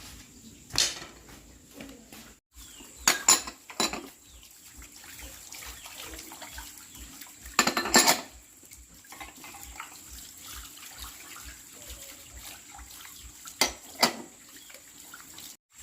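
Pots and dishes clattering: a few sharp knocks and clinks in small groups over a faint steady wash of water.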